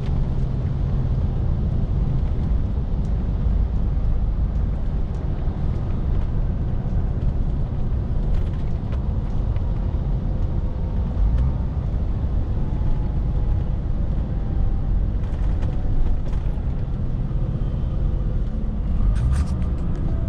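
Scania R450 lorry's 13-litre straight-six diesel running steadily while driving, with a deep, even rumble of engine and road noise. A few light clicks come in near the end.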